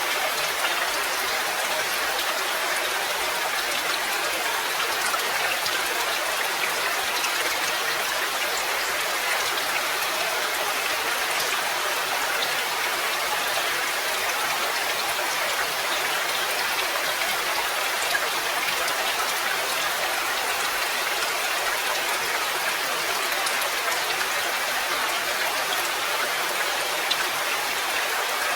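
Steady rain: an even hiss of many falling drops, with fine pattering ticks, holding level the whole time.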